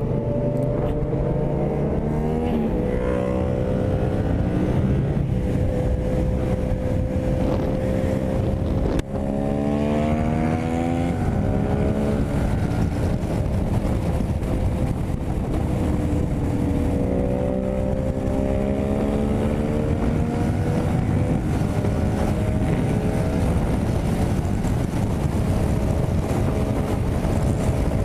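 Yamaha MT-07's parallel-twin engine under throttle at highway speed, its pitch climbing as the bike accelerates, once about nine seconds in after a brief dip and again a little later. Steady wind rush runs underneath.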